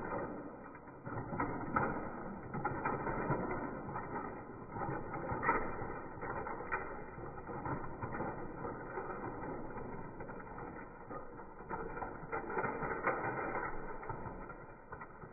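Battery-powered Plarail toy train running on plastic track, its motor and wheels whirring and rattling, with scattered clicks and knocks. The audio is slowed down.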